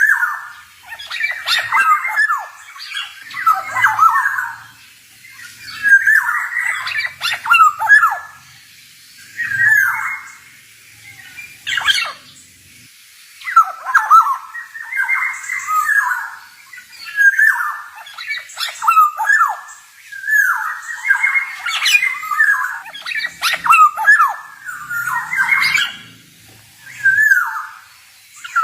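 Male black-naped oriole singing: phrases of quick, gliding whistled notes, each a second or two long, with short pauses between them.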